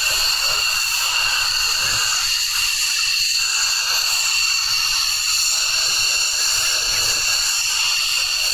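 Aircraft jet engine running steadily, giving a high whine of several held tones over a constant hiss.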